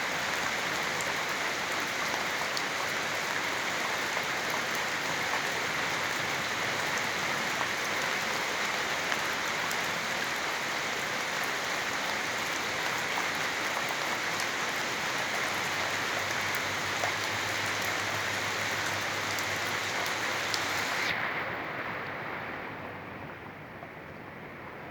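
Steady rainfall, a dense hiss with the patter of individual drops. About 21 seconds in, the bright hiss suddenly loses its high end and the rain goes on as a quieter, duller rush.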